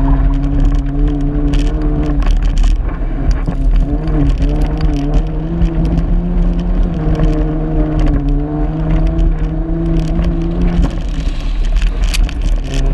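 Car engine being driven hard on a dirt track. Its note holds, dips about four seconds in, climbs again, and drops near the end as the driver works the throttle. Sharp clicks of stones and dirt hitting the body and wind rumble run alongside it, heard from a camera mounted outside the car's door.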